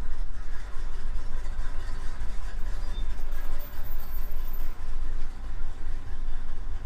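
1957 Chevrolet Bel Air running at low speed, its engine giving a steady low rumble.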